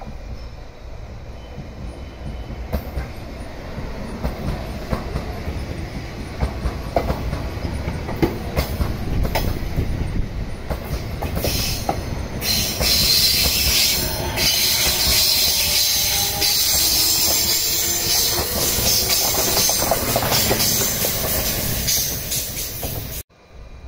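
JR East E233-7000 series electric train passing at close range. Its wheels click over rail joints as it nears, then a loud rush of wheel and rail noise with a whine follows as the cars go by. The sound cuts off suddenly near the end.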